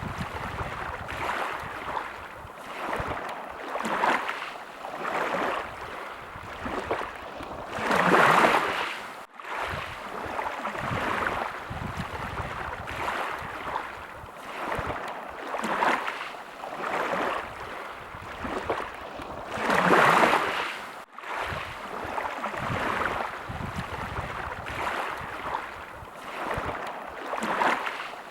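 Small sea waves lapping, a soft wash every second or two, with two bigger splashing surges about twelve seconds apart that each cut off abruptly.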